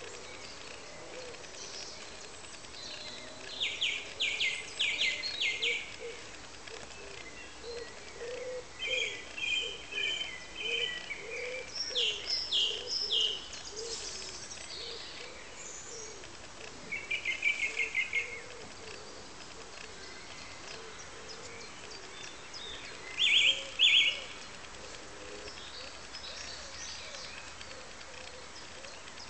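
A songbird singing several short phrases of rapid, trilled notes with pauses between them, the loudest phrase a few seconds before the end, over a steady outdoor hiss.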